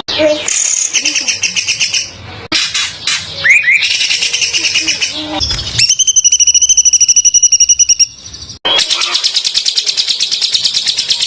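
Songbird song used as a training master: harsh, very rapid runs of chattering notes packed close together. About six seconds in, the song changes to a steady fast trill of about a dozen notes a second that stops suddenly, and another dense burst follows after a short break.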